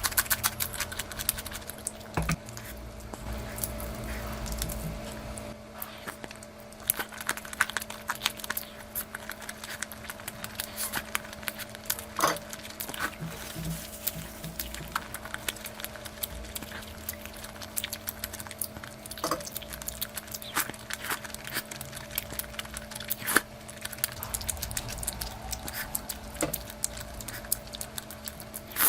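A person eating curry up close: wet chewing, smacking and irregular short clicks and crackles throughout, over a steady low hum.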